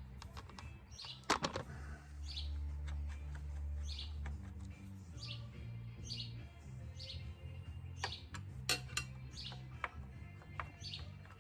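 A small bird chirping over and over, one short falling chirp about every 0.7 seconds. Sharp clicks and taps, loudest about a second in and again near nine seconds.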